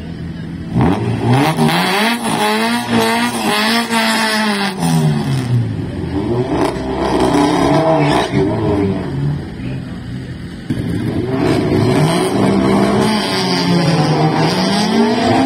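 A drag-racing car's engine revving up and down repeatedly, its pitch climbing and falling in long sweeps, loud from about a second in with a short lull past the middle.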